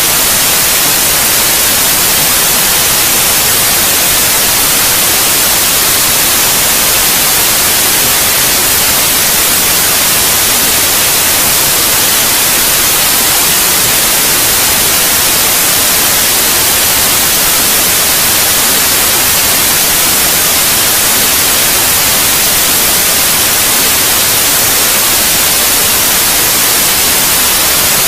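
Steady white noise: an even, unchanging hiss, strongest in the high frequencies, played as a sleep aid for babies.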